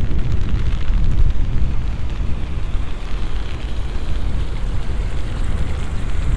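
Sudden rain shower in the city: a loud, rough, uneven rumble heavy in the low end, with a faint patter of drops above it.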